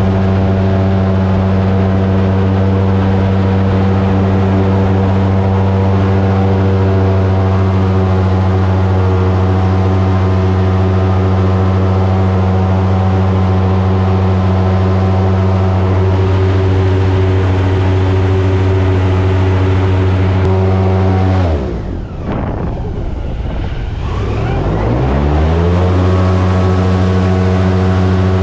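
Airboat engine and propeller running at steady high speed. About 21 seconds in the throttle is cut and the pitch falls sharply, then it climbs back up to full speed over the next four seconds or so.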